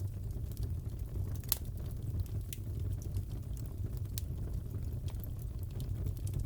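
Crackling wood fire: a steady low rumble of flames with scattered sharp pops and snaps, the loudest about a second and a half in.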